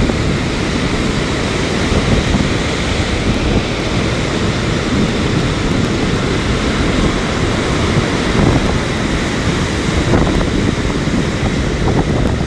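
Strong wind buffeting the microphone over stormy sea surf, a steady, loud rush of noise.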